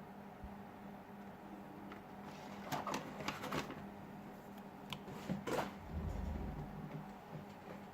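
Small clicks and scrapes of a small screwdriver and phone parts being handled on a work surface, in two clusters about three and five seconds in, followed by a brief low rumble.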